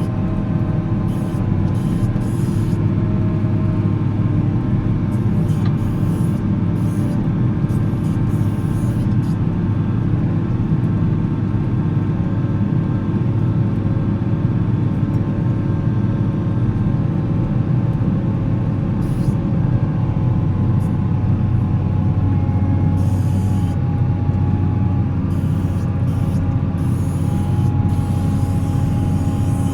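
Volvo L70C wheel loader's diesel engine running steadily while plowing snow, a constant low drone.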